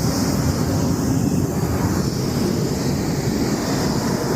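Strong wind buffeting the microphone: a loud, steady rumble with a hiss over it.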